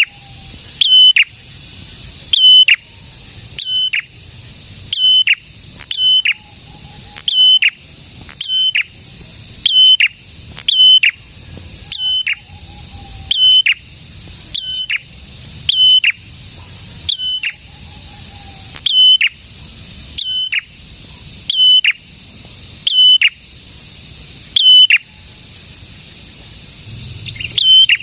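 Prenjak singing a loud, insistent call over and over, about once every second and a bit: each a short high note that ends in a quick downward sweep. Faint, lower warbling notes come between some of the calls, and the calls crowd closer together near the end.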